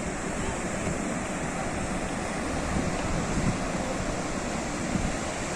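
Sea waves breaking on a shore: a steady rush of surf.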